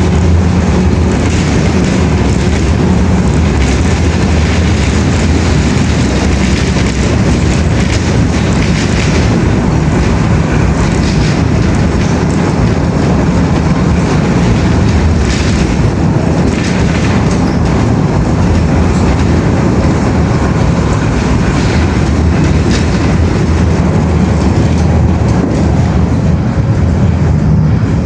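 Steady, loud rumble of a vehicle in motion, with scattered clicks and knocks.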